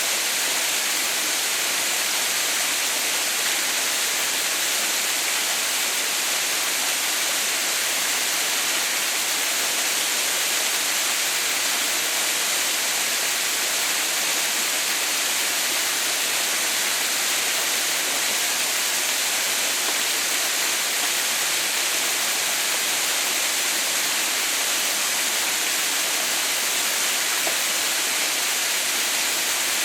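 Water pouring steadily down a frozen waterfall: an even, unbroken hiss of falling and splashing water, strongest in the high range.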